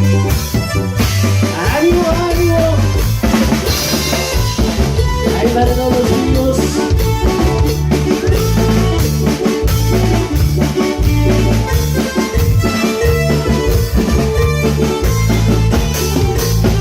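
A band playing Latin dance music: a drum kit with kick, snare and rimshots keeps a steady beat over a stepping bass line, with melody instruments on top.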